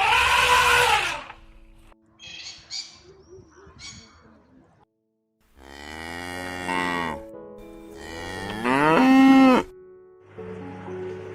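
Cow mooing: two long moos in the second half, the second rising in pitch and the loudest, after a short loud call at the start and a few faint chirps.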